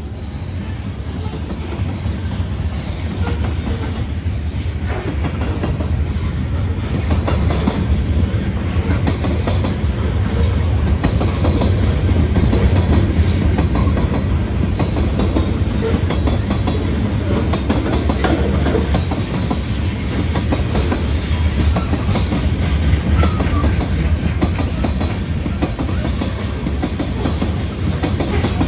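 Freight cars of a manifest train, covered hoppers then tank cars, rolling past: a steady low rumble with rapid clicking of steel wheels over the rail joints, a little louder after the first few seconds.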